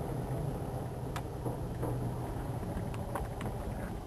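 1985 Ford F-150's inline-six idling steadily through a glass-pack muffler while it warms up after a cold start. A few faint clicks come through in the second half.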